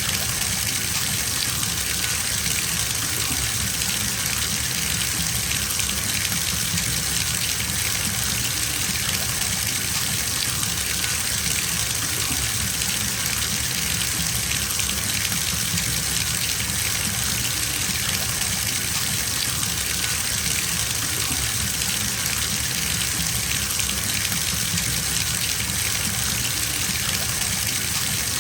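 Bathtub filling from its faucet: a steady stream of water gushing into the tub, even and unbroken.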